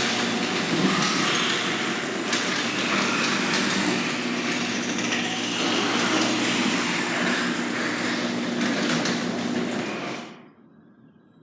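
Garage door opener running as the door travels: a steady motor hum with rattling from the door and rail, stopping suddenly about ten seconds in when the door reaches the end of its travel.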